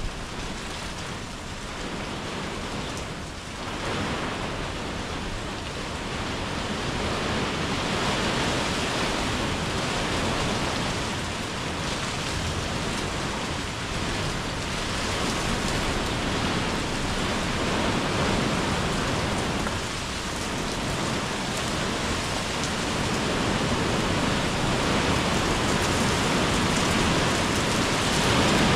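Rain falling on paving and tree leaves, a steady hiss that slowly grows louder as the shower gets heavier.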